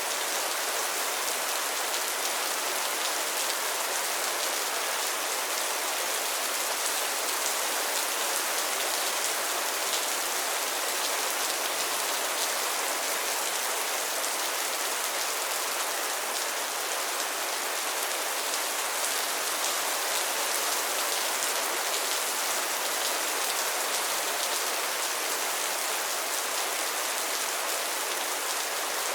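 Steady rain falling on a pond and its lily pads, a dense even patter of drops on water and leaves.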